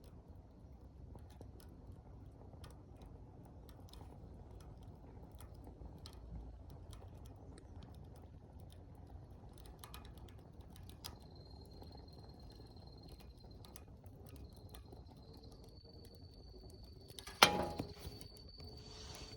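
Fallen leaves burning in a steel fire pit, crackling with scattered small pops over a low rumble of flame. A thin, steady high whine joins about halfway, and near the end there is one loud, sharp crack with a brief ring.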